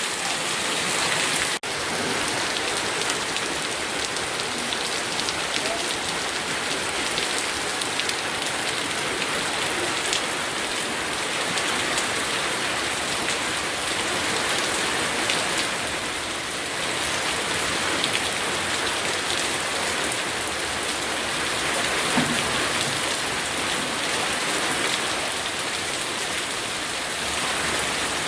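Steady rain falling, a continuous hiss dotted with the patter of individual drops. There is a momentary dropout about one and a half seconds in.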